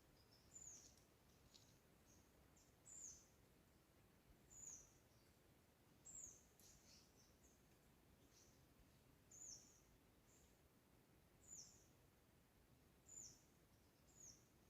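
A bird repeating a short, high, down-slurred call about every one and a half seconds, faint over a low background hiss.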